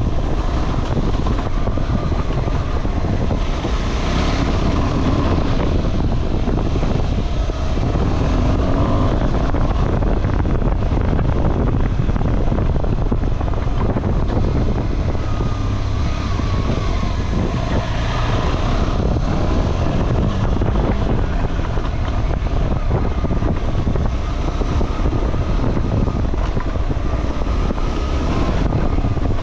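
Motorcycle engine running while riding off-road, its pitch wavering with the throttle, under heavy wind noise buffeting the microphone.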